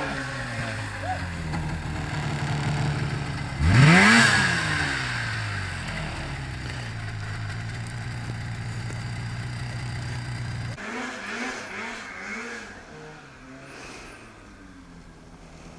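Two-stroke snowmobile engine running steadily, with one sharp rev that rises and falls about four seconds in. Partway through, the sound changes to a quieter snowmobile engine revving up and down several times in a row.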